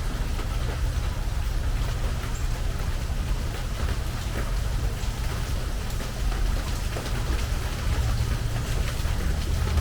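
Steady rain on a metal porch roof, with many separate drops ticking on the metal over a constant patter. A steady low rumble runs underneath.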